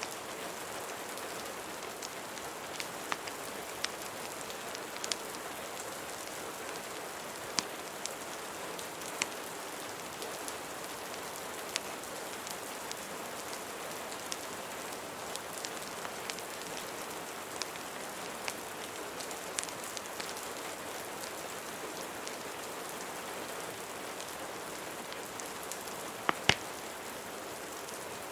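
Steady rain, mixed with scattered sharp pops from a crackling wood fire; a louder double pop near the end.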